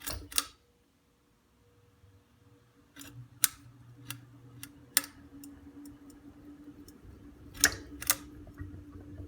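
Ceiling fan pull-chain switch clicking several times while the motor of a 42-inch Encon Princess ceiling fan starts up. A steady low hum comes up about three seconds in, without any distinct startup noise.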